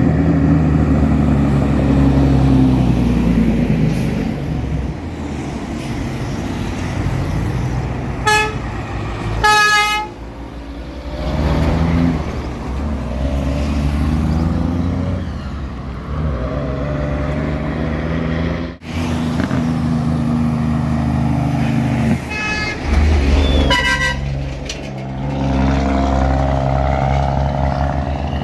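Truck engine running under way, its pitch rising and falling. Short horn blasts sound about eight and ten seconds in, and again twice a little past the twenty-second mark.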